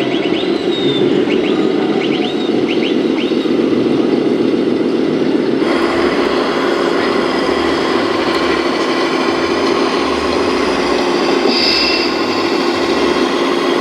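Electric motors and gearboxes of 1:14 scale RC model trucks and construction machines running, a steady mechanical hum. The sound changes abruptly about six seconds in.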